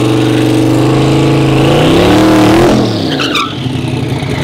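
Twin-turbo LS V8 street truck running loud on a steady note. About two and a half seconds in, its pitch rises and then drops sharply as it passes and pulls away. A few brief high chirps follow.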